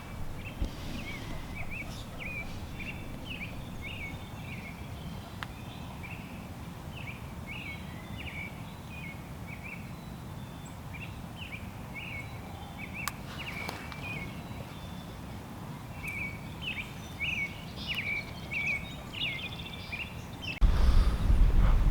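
A songbird singing repeated phrases of short chirps over steady wind noise. Near the end, a sudden loud low rumble of wind buffeting the microphone.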